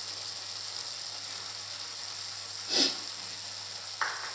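Mutton and onions sizzling steadily as they fry in a pan, with a short hissy puff about three seconds in and a light click near the end.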